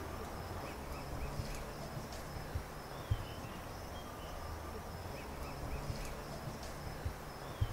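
Woodland ambience: a bird gives two short runs of four quick chirps, about five seconds apart, over a steady high insect whine and a low rumble, with a couple of soft knocks.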